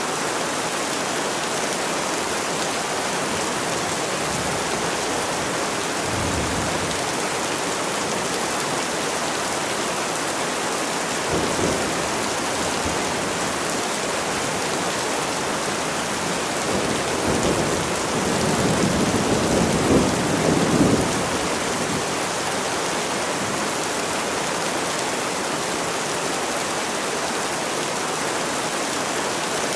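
Steady rain, with thunder rumbling low a few times; the longest and loudest rumble comes about two-thirds of the way through.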